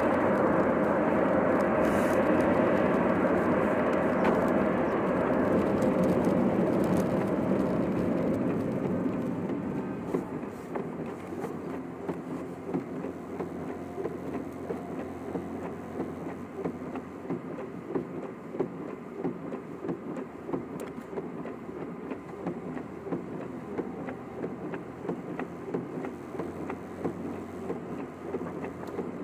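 Car running on the road, heard from inside the cabin: steady engine and tyre noise, louder at first, then dropping to a quieter level about nine seconds in as the car slows.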